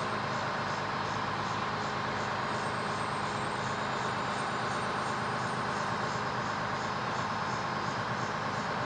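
Fire truck's engine running steadily with road noise as it drives, an even, unbroken rumble and hiss.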